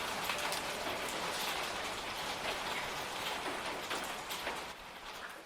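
Rain-like patter: a steady hiss full of many small ticks, fading out near the end.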